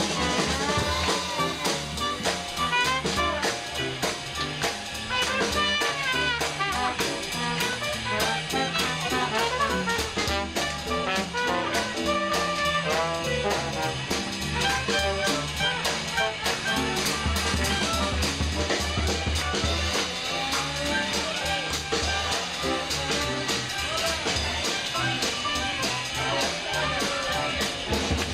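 A small New Orleans-style jazz band playing a lively second-line number, with brass and clarinet over a drum kit.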